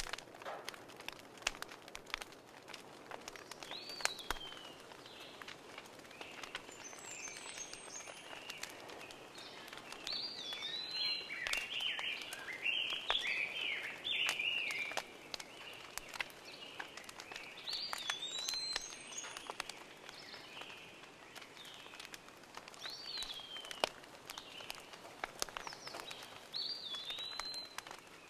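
Birds singing: a short whistled phrase that rises then falls, repeated every few seconds, with a busier run of chirps in the middle. Scattered small clicks and knocks of hands working vegetables over a glass bowl.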